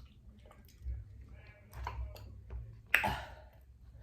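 Close-miked eating of barbecued spare ribs: chewing and small wet mouth clicks, with one sharp, loud mouth sound about three seconds in.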